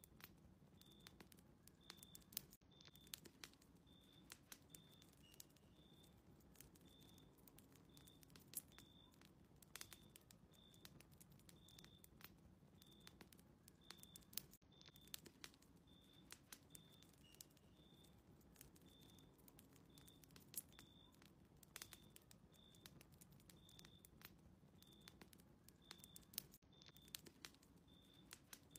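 Faint crackling of a wood fire in a fireplace, irregular sharp pops and clicks over a low hum. A short high chirp repeats steadily, about once every 0.7 s.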